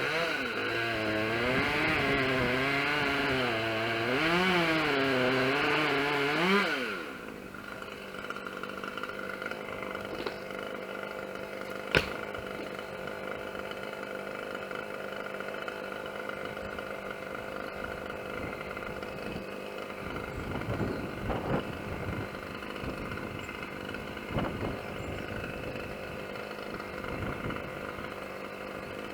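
Chainsaw running at high revs for about seven seconds, its pitch wavering up and down, then dropping suddenly to a steady idle for the rest. A single sharp knock comes about twelve seconds in.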